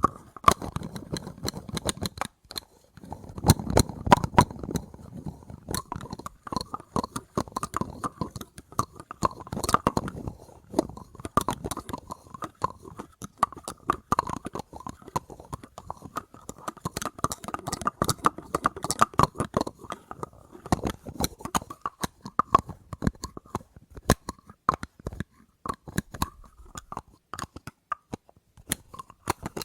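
Rapid, irregular tapping and clicking on small objects, close up, many taps a second with a slight hollow ring.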